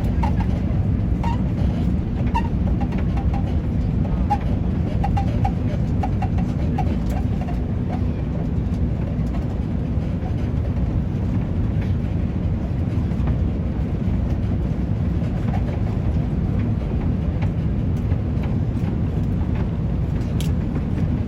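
Steady low rumble of an Airbus A350 cabin in flight: engine and airflow noise. Faint short squeaks come through during the first several seconds, and there is a sharp click near the end.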